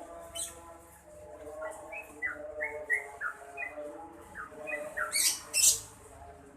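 Yellow-vented bulbul singing a quick string of short, downward-slurred notes. A sharp crack comes about half a second in, and two louder ones near the end.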